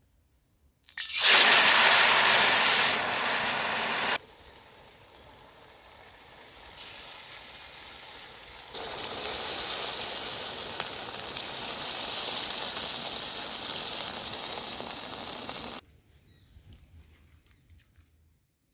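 Food hissing and sizzling as it cooks, in three separate clips that switch abruptly: loud from about a second in, quieter from about four seconds, loud again from about nine seconds until it cuts off near the end.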